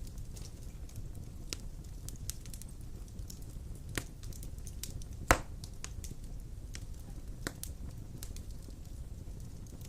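Large wood logs burning in a fireplace: a steady low rumble of flame with scattered crackles and pops, the sharpest pop about five seconds in.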